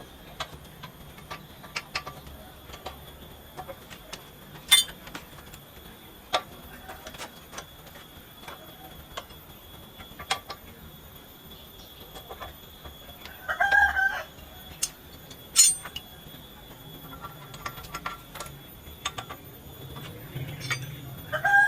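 Scattered sharp clinks and knocks, with a chicken calling twice: once about two-thirds of the way in and again at the very end.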